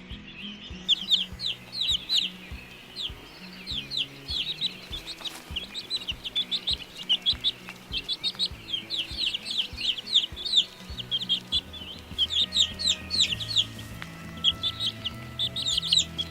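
Birds chirping in rapid bursts of short, high notes, over soft background music.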